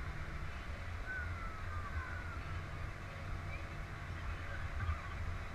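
Off-road 4x4's engine running steadily at low revs, a low rumble.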